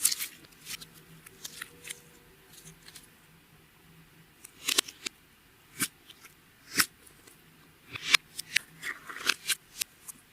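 Slime being handled and squeezed, giving irregular sharp sticky clicks and pops in clusters, busiest near the end.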